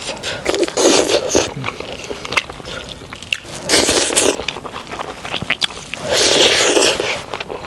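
Close-miked chewing and eating by hand: many short wet mouth clicks and smacks, with three longer hissing noises near the start, in the middle and near the end.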